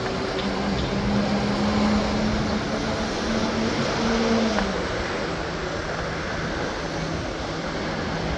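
PATH subway train running: a steady rumble with a motor hum that drops in pitch about four and a half seconds in.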